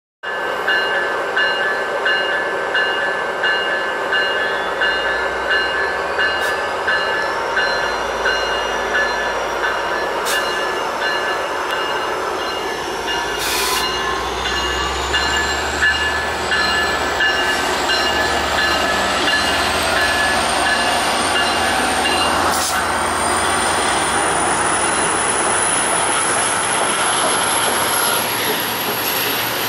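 Diesel-hauled passenger train, an F59PHI locomotive with its coaches, rolling slowly past. A bell rings steadily over a low engine rumble and fades out about two-thirds through. A thin high whine climbs slowly in pitch through the second half, with a couple of short metallic clanks.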